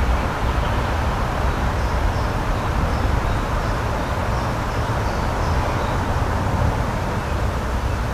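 Steady outdoor rushing noise, even and unbroken, with faint high bird chirps repeating in the background for a few seconds in the middle.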